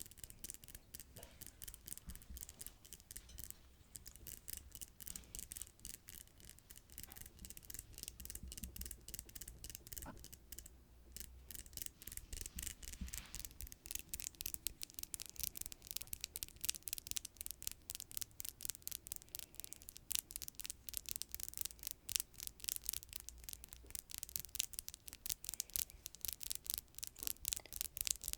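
Freshly manicured fingernails tapping and scratching, a rapid, dense run of fine clicks that grows louder about halfway through.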